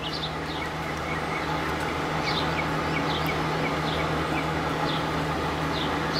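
Steady low hum and hiss of background noise, with a small bird chirping in short, high, falling notes every half second or so.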